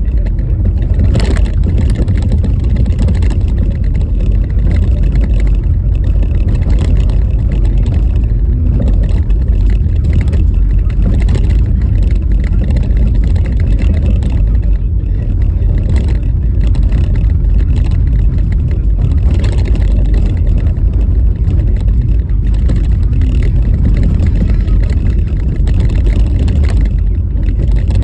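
A car driving over a rough, bumpy snow-covered road in a snowstorm: a loud, steady low rumble of road and wind noise, broken by scattered short knocks from the jolts of the uneven surface.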